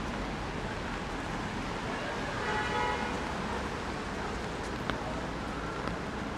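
Steady city street noise with traffic on a rainy day. A brief pitched sound comes about two and a half seconds in, and a single sharp click near the end.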